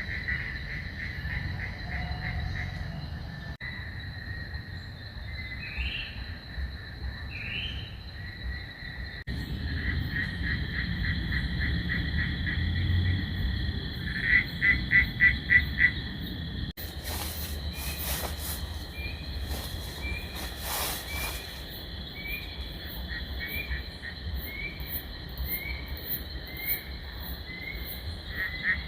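Night chorus of frogs calling in rapid pulsed trains over a steady, high insect drone, with a low background hiss; the mix changes abruptly a few times.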